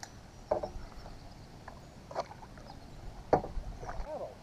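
Kayak paddle working the water, with a few short splashes and knocks spaced a second or so apart.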